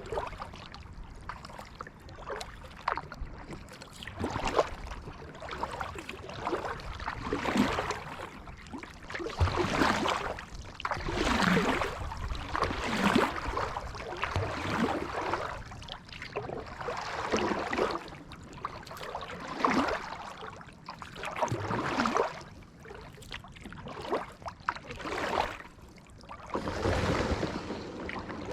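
Kayak paddle strokes: the blades dipping and pulling through the water in a steady rhythm, a splashing swish about every two seconds.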